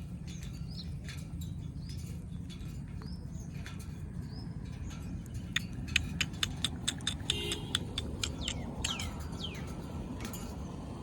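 Indian ringneck parakeets chirping, with short calls that slide down in pitch. About halfway through comes a quick run of sharp clicks. A steady low hum runs underneath.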